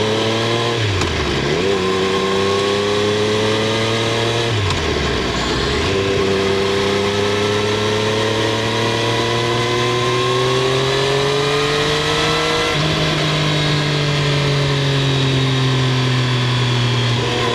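Triumph Street Triple 765 R's three-cylinder engine and exhaust under way, heard from under the rear seat. The engine note climbs and drops sharply twice in the first few seconds as the bike shifts up through the gears. It then rises slowly through a long pull, changes abruptly about thirteen seconds in and eases down near the end.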